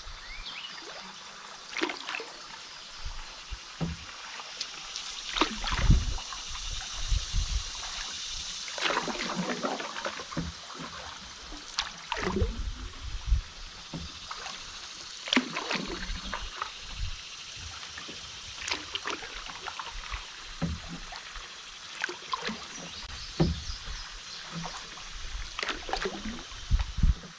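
Canoe paddle strokes splashing and dripping every second or two over a steady rush of flowing river water.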